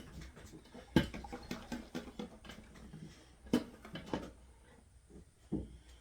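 Scattered light clicks and knocks, with sharper knocks about a second in, about halfway through and near the end.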